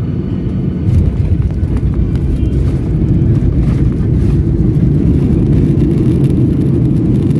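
Steady low rumble of a jet airliner heard from inside the passenger cabin, growing a little louder about a second in.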